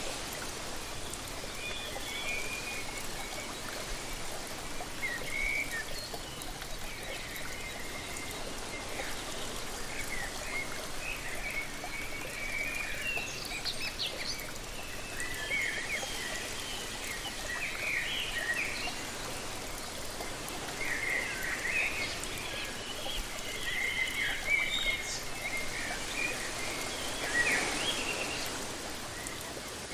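Steady rush of a waterfall with many small birds chirping and calling over it, the calls thickest in the second half.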